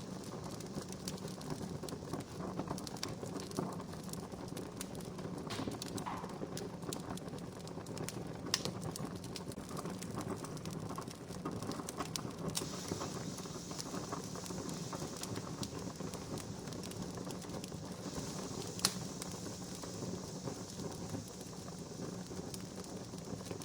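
Wood campfire crackling, with irregular small snaps and pops and two sharper pops. A steady high hiss joins about halfway through.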